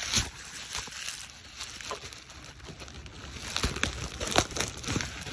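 Irregular clicks, knocks and rustling, as of objects being handled.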